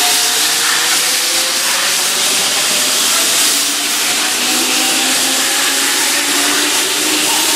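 Keihan 2600-series electric train pulling out of a station, its motors giving a hum that climbs slowly in pitch as it accelerates, over a steady hiss of running noise.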